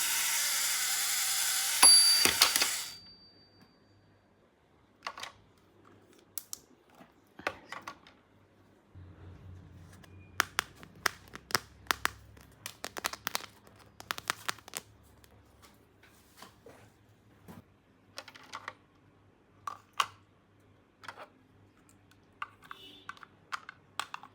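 A loud steady noise that stops suddenly about three seconds in, with a sharp click just before it ends. Then small plastic toy pieces being handled: scattered light clicks and taps, some in quick clusters.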